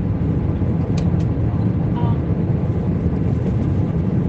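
Airbus A320 cabin noise in flight: a steady, deep rushing hum of engine and airflow. Two faint clicks come about a second in.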